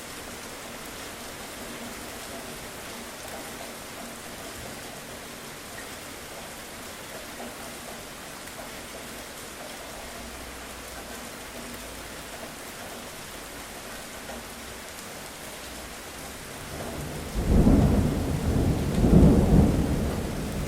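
Steady rain falling, with a loud crack and rumble of thunder breaking in near the end and rolling on in two swells.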